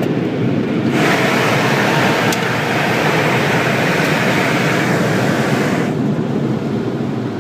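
Automatic car wash dryer blowers heard from inside the car: a steady, loud rush of air over the body, with a brighter hiss swelling in about a second in and dropping away about six seconds in as a blower passes.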